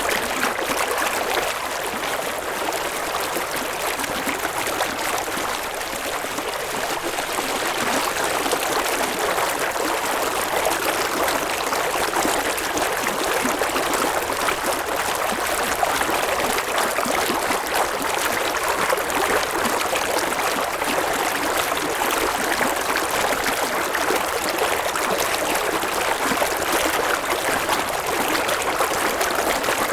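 River water running steadily over stones, a continuous rushing and babbling.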